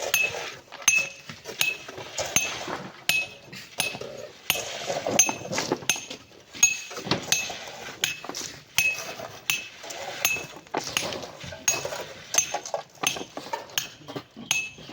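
A metal hand digging tool repeatedly striking rock and hard-packed sand. Each blow is a sharp clink with a short ringing note, coming about once every 0.7 s, with scraping and crumbling between strikes.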